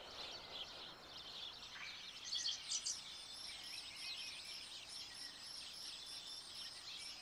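Faint outdoor nature ambience of small birds chirping, with a louder cluster of calls between two and three seconds in. From about three seconds on, a high, steady run of short notes repeats about four times a second.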